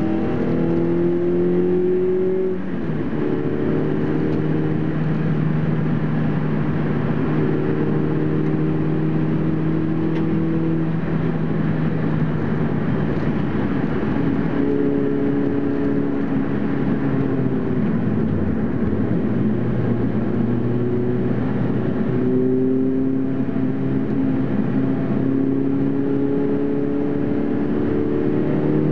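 Toyota Celica T23's 1ZZ-FE inline-four, converted to 2.0 litres, heard from inside the cabin under hard driving on track, with road and wind noise beneath. The engine note holds and climbs slowly, drops sharply for a moment about two-thirds through, then climbs again.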